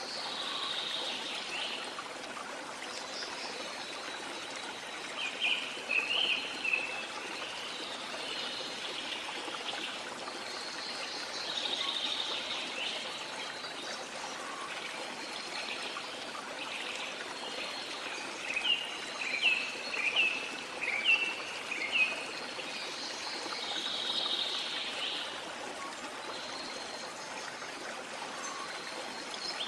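Steady rushing of falling water with birds calling over it. Quick runs of short chirps come about five seconds in and again between about eighteen and twenty-two seconds in.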